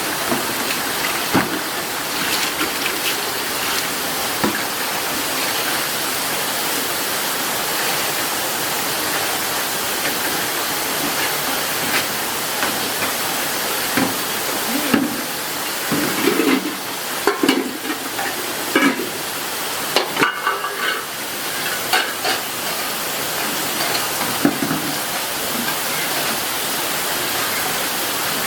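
Steady rain falling. About halfway through comes a run of irregular knocks and splashes.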